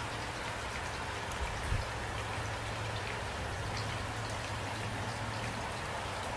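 Steady rain falling at night, an even hiss with scattered individual drops ticking close by. One brief soft low thump comes about a second and a half in.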